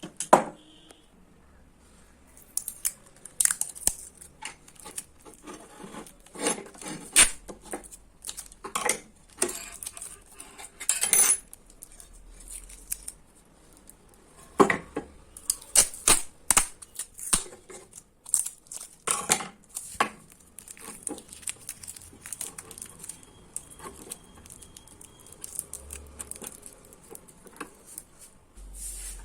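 Irregular metallic clinks, knocks and scrapes of hand tools working on a microwave oven's magnetron as it is taken apart for its magnets, with a sharp knock right at the start.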